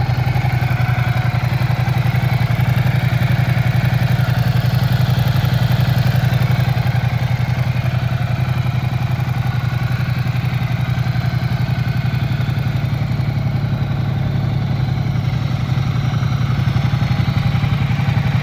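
Ducati Diavel 1260 S's 1262 cc Testastretta DVT L-twin engine idling steadily.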